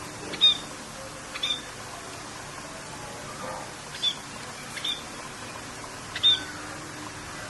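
Short bird chirps, one at a time, repeated every second or so, over a steady rain-like hiss.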